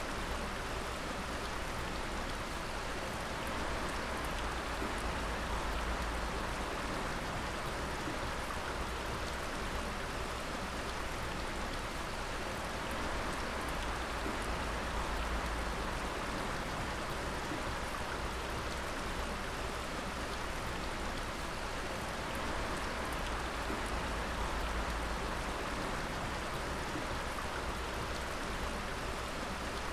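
Water dripping steadily onto wet surfaces: a dense patter of many small drops with a steady low rumble underneath.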